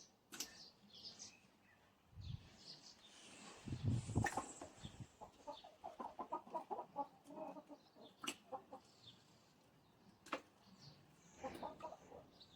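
Chickens clucking in quick runs of short notes, with scattered sharp clicks and a few low thumps.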